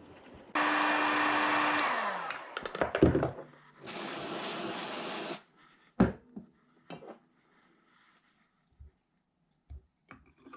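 A small electric power tool runs for about a second, its motor winding down in pitch after release, followed by a couple of knocks and a second burst of hissy noise about 1.5 s long, then a few light clicks of parts being handled.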